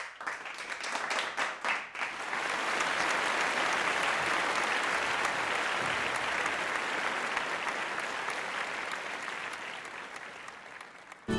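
Audience applause: a few separate claps at first, quickly filling out into steady, dense clapping that slowly fades toward the end and cuts off abruptly.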